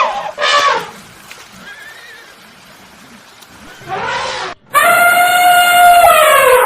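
Horses neighing: two short calls, then a long, loud whinny that holds steady and slides down in pitch at the end.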